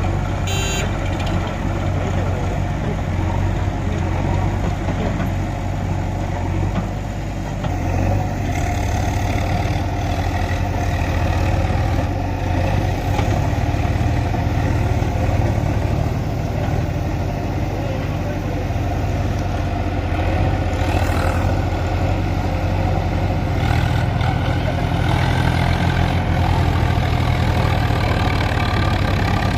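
Tractor diesel engine running steadily, a continuous low engine note.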